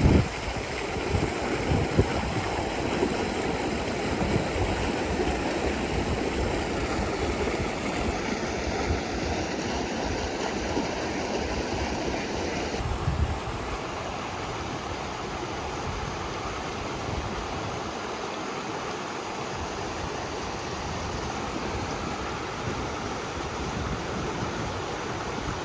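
Mountain creek water rushing steadily over rocks, a little quieter after about 13 seconds.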